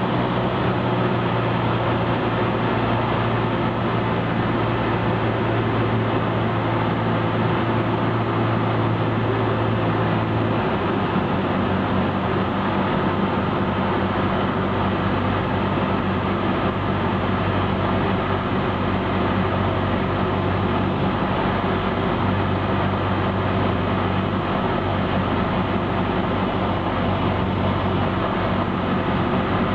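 Cessna 172's piston engine and propeller running steadily in flight, a loud continuous drone. The engine note drops slightly about ten seconds in.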